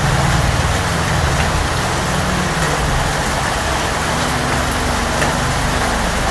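Steady heavy rain falling, an even hiss with no breaks. A low hum sits underneath and shifts to a slightly higher pitch about two thirds of the way through.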